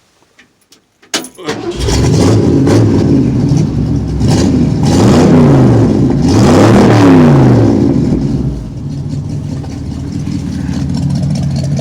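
1975 Ford F100's 302 V8 with Cherry Bomb glasspack true-dual exhaust started: the starter turns over briefly and the engine catches right away, about a second and a half in. It revs up and down a few times, then settles near the end into a loping idle from its mild circle-track cam.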